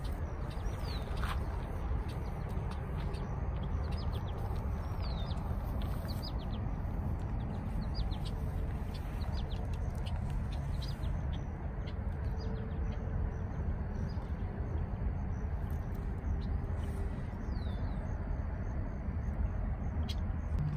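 Wild birds chirping and calling, with short high chirps, some sliding downward, repeated throughout over a steady low rumble.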